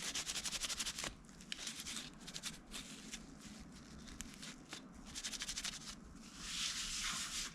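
A wet wipe scrubbing hardened old thermal paste off a laptop's CPU and graphics chip. It makes quick back-and-forth rubbing strokes in several short bursts, with a longer continuous rub near the end.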